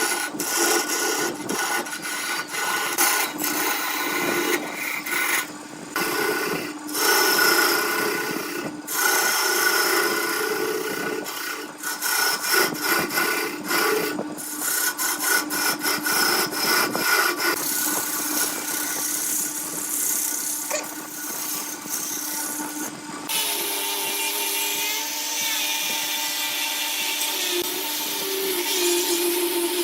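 Woodturning on a lathe: a turning tool scraping and shaving spinning wood over a steady motor hum, broken by several abrupt cuts between clips. About two-thirds of the way through, it changes to a steadier machine sound with a wavering tone.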